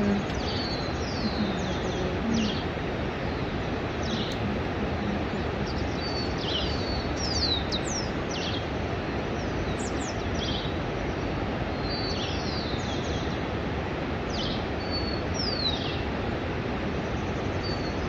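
Bird chirps: many short, high chirps, most falling in pitch, scattered throughout over a steady background hiss.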